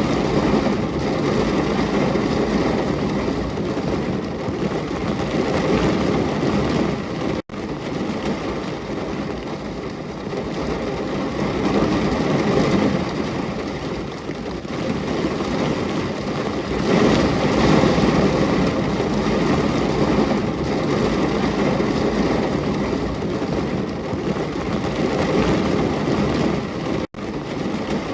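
Rain falling steadily, a continuous even noise, broken by two split-second silent gaps, one about seven seconds in and one near the end.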